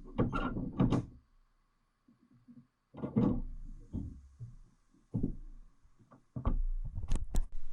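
Handling noises: four short clusters of knocks, thuds and rustling, with a few sharp clicks near the end, quiet between them.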